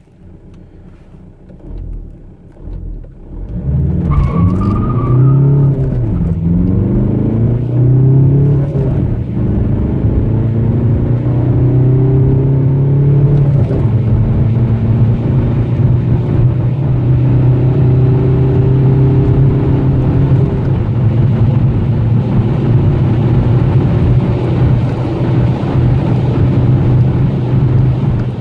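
Tuned Seat Leon 1.9 TDI (ARL) four-cylinder turbodiesel under full-throttle acceleration, heard from inside the cabin. After a few quieter seconds at low revs, the engine pulls hard, its pitch rising and dropping back at each of several upshifts. It then holds steady at high revs and high speed.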